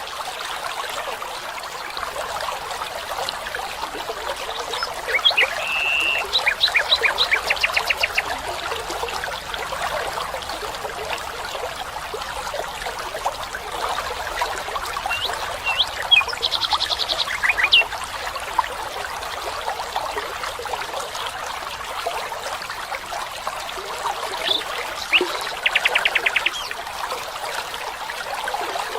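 Running water trickling steadily, with short, rapid trilled animal calls breaking in about six seconds in, again midway and near the end.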